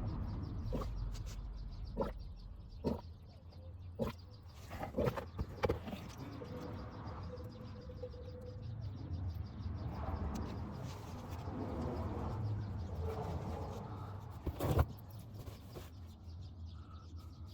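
Scattered sharp clicks and knocks from hand tools during work on the car's oil drain plug and splash pan, over a steady low rumble. A faint held note sounds a little after the middle.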